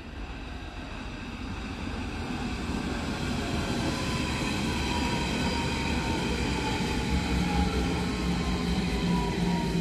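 Berlin S-Bahn electric train approaching and passing close by: wheels running on the rails and a whine from its electric drive, growing steadily louder. The whining tones drop slightly in pitch, and a low hum joins in about seven seconds in.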